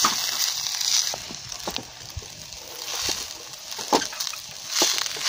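Fried rice sizzling in a Chinese wok while a spatula stirs and tosses it. The hiss swells in waves about every second, with scattered sharp clicks of metal on the wok.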